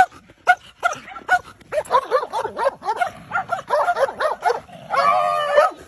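Dogs yapping and yipping at each other through a gap under a wooden fence: a few sharp yaps, then a fast run of high yips and whines bending up and down, ending on one longer held whine.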